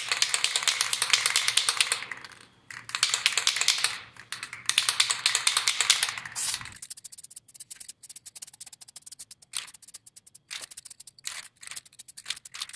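Aerosol spray can of chrome paint hissing in three long bursts over the first seven seconds as a second coat goes onto an alloy wheel, followed by a rapid clicking rattle.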